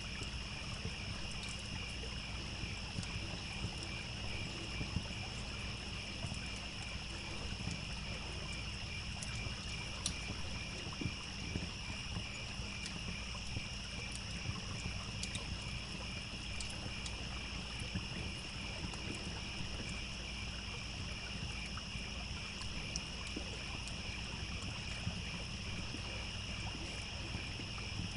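Ambient mix of crickets singing steadily, the low rush of a trickling stream, and the scattered sharp pops of a crackling campfire.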